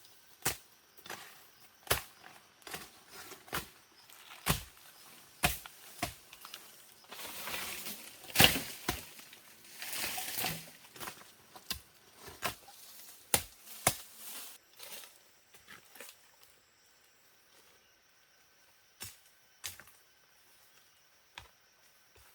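Irregular sharp knocks and cracks of wood being worked by hand, with a stretch of rustling in the middle; they stop about fifteen seconds in, leaving a faint steady high-pitched tone.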